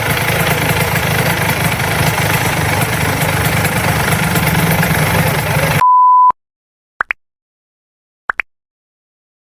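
Vespa two-stroke engine with a Quattrini 144 cylinder kit running steadily. About six seconds in it is cut off abruptly by a short steady beep, followed by silence broken by two brief blips.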